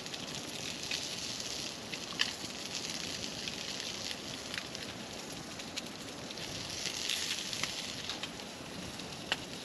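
Wood campfire burning down, with a steady hiss and a few sharp crackling pops.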